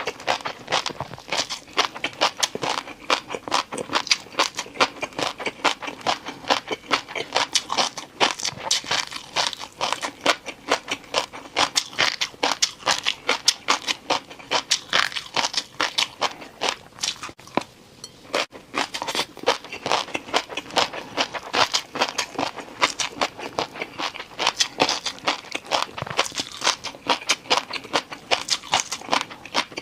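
Close-miked crunching and chewing of crunchy noodles: a dense, irregular run of sharp crackly crunches, with a short pause about 18 seconds in.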